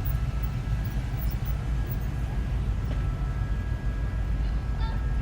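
Steady low rumble of cars cruising slowly past on a street.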